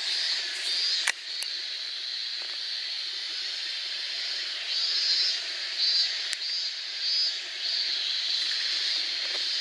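Chorus of insects buzzing and shrilling steadily, swelling in repeated pulses, with fainter high-pitched chirps above it. A single sharp click about a second in.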